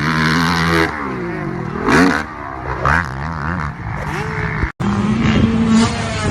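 Motocross dirt bike engines revving, their pitch rising and falling with the throttle. The sound drops out sharply about three-quarters through and another engine picks up.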